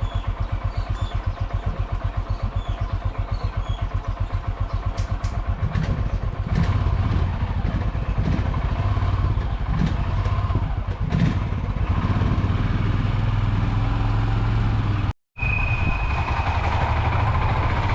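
Royal Enfield single-cylinder motorcycle engine running at idle with a fast, even thump. From about six seconds in, it gives way to louder, less even engine sound from the running bikes. There is a brief dropout near the end.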